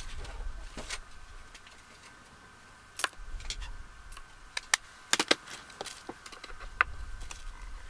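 Scattered light clicks and taps of makeup brushes and palette being handled, some in quick pairs, with a few soft low rumbles of handling noise.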